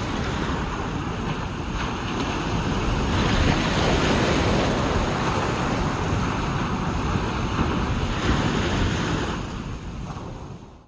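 Ocean waves washing onto a beach with wind buffeting the microphone, a steady rushing noise that swells about three seconds in. The sound fades out near the end.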